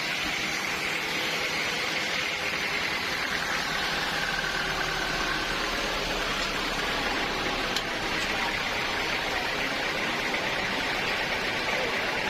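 Sawmill saw machinery running steadily, a continuous even mechanical noise, with a single short click about eight seconds in.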